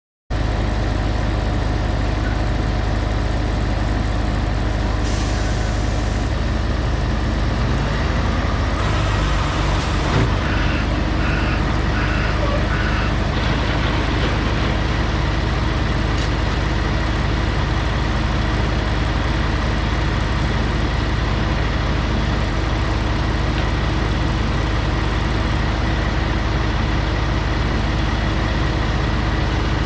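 Heavy road-train truck's diesel engine running steadily, its low note shifting briefly about eight to ten seconds in, with two short hisses about five and nine seconds in.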